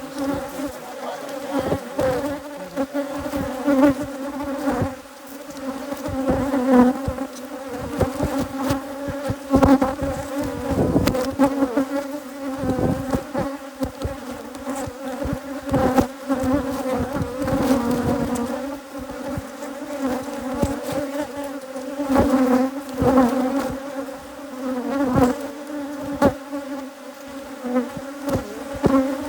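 Dense, loud buzzing of honeybees from an Africanized hybrid colony, a steady drone around the microphone, with frequent sharp clicks and knocks throughout.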